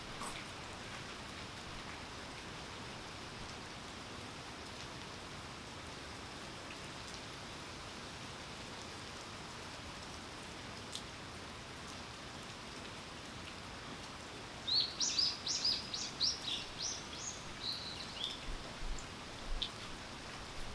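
Steady rain falling, an even hiss. About fifteen seconds in, a bird gives a quick run of high chirps lasting a few seconds.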